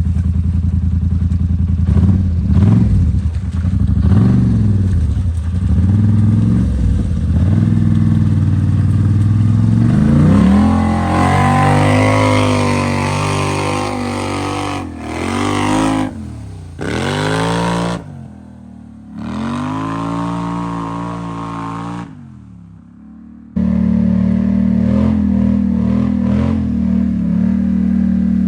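Off-road vehicle engine running and revving hard, its pitch climbing and falling several times, with a few abrupt cuts in the sound.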